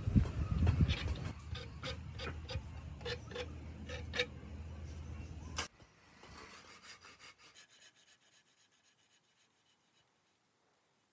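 A hand tool rubbing and rasping on wood in regular strokes, about two a second, over a low hum. The hum and strokes stop abruptly just after halfway, and fainter scratching strokes follow.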